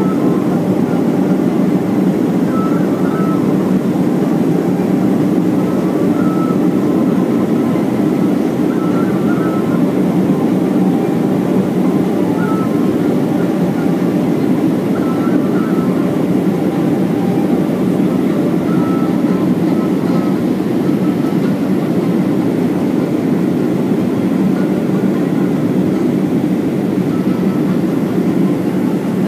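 Steady cabin noise of a Boeing 737-400 airliner in flight, a constant low rush of engines and airflow with no change in level.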